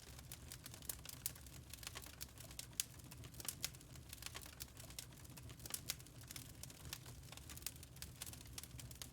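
Fireplace fire crackling, with irregular sharp pops of varying loudness over a low steady rumble.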